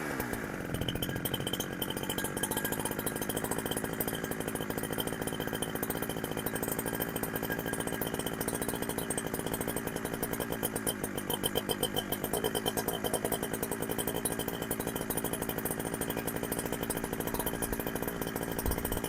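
Chinese-made Husqvarna 372XP clone chainsaw's two-stroke engine idling steadily after a rev, firing evenly, with the sound swelling and wavering a little about eleven to thirteen seconds in.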